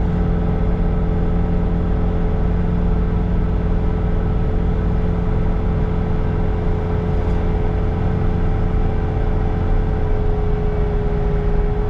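Bobcat T66 compact track loader's diesel engine running steadily at working throttle while powering a snow blower attachment, with a steady whine over the engine drone.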